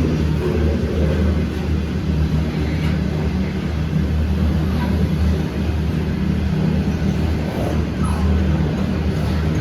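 Diesel freight train passing with a steady, low engine drone from its diesel-electric locomotives.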